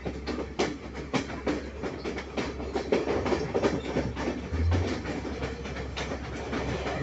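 Passenger train running on the rails: a steady low rumble with quick, irregular clicks and knocks from the wheels and carriages, and a brief heavier low throb about two-thirds of the way through.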